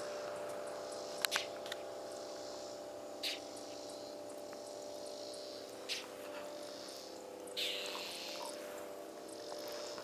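Evening insects chirring steadily over a low steady hum, broken by a bird's short, sharp calls, four of them a couple of seconds apart, the loudest about a second in.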